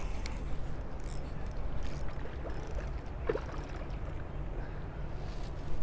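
Steady low rush of flowing creek water, with a few faint scattered clicks.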